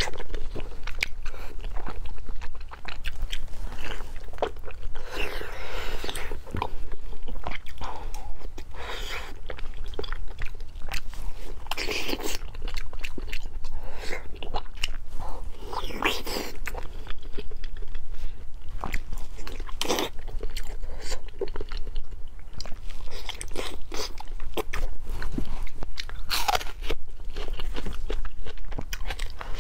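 A person biting and chewing braised fatty pork belly close to a clip-on microphone: a dense run of small mouth clicks, louder at several bites.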